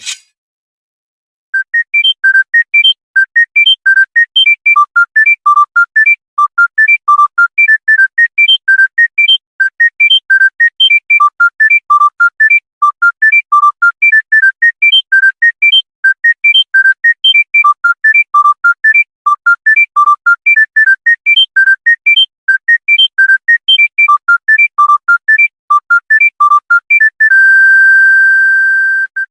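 Monophonic mobile-phone ringtone: a fast melody of short separate high beeping notes, about four or five a second, starting about a second and a half in and ending on one long held note.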